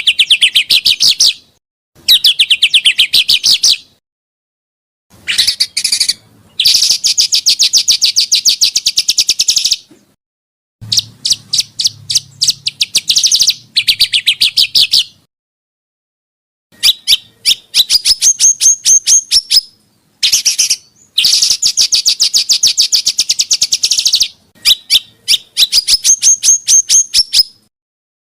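Songbird song: a run of phrases, each a fast rattle of sharp, evenly repeated notes (the rapid-fire 'tembakan' style), lasting one to four seconds, with brief silences between them. Some phrases end in quick rising notes.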